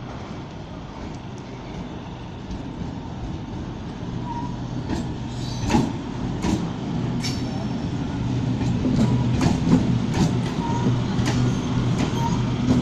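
Local passenger train approaching and running past along the platform track, growing louder through the first half, with a steady low hum and sharp wheel clacks over the rail joints from about five seconds in.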